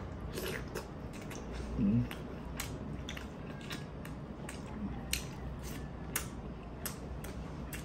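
A person chewing and sucking on stewed tuna eyes up close to the microphone, with irregular sharp wet mouth clicks and smacks.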